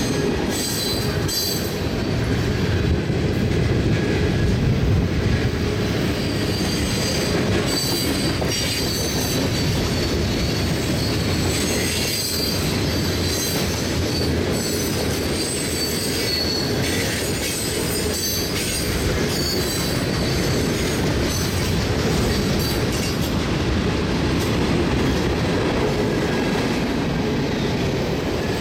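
Cars of a CSX manifest freight train rolling past at close range: a steady rumble of steel wheels on rail, broken by intermittent high-pitched wheel squeal.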